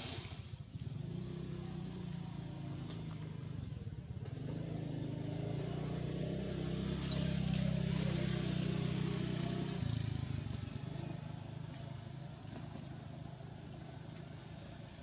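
Motor vehicle engine passing by, a low hum that grows louder towards the middle and then fades away.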